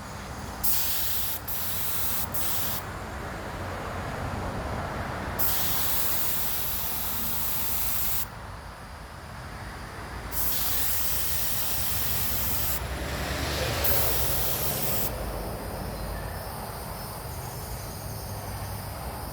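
Compressed-air paint spray gun hissing in several passes, each a second to three seconds long, as the trigger is pulled and released. It is running at about 50 psi, which the painter thinks may be too little air.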